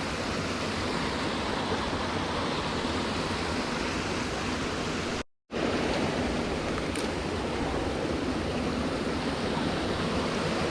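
Steady rushing of a nearby waterfall, an even wash of water noise that cuts out completely for a moment about five seconds in.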